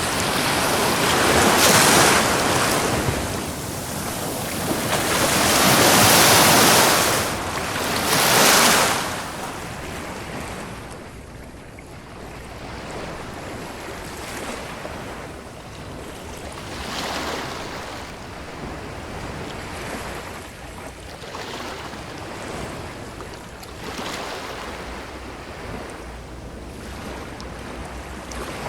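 Ocean waves washing onto a beach, the noise of surf swelling and fading in turn. Several loud breaks come in the first nine seconds, then quieter washes every few seconds.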